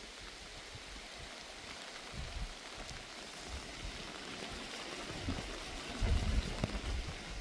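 Steady rain falling. Low thuds and rumbling come in about six seconds in.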